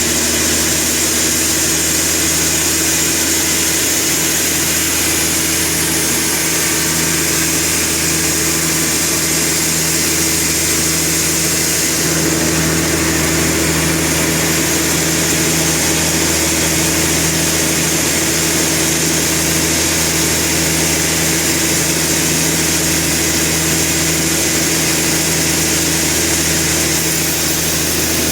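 Sawmill machinery running with a steady, unchanging engine-like drone and a low hum.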